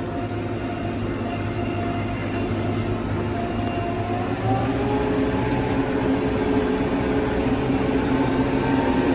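New Holland Powerstar 75 tractor's diesel engine running steadily as the tractor drives in gear; about four and a half seconds in it gets louder and its pitch rises a little.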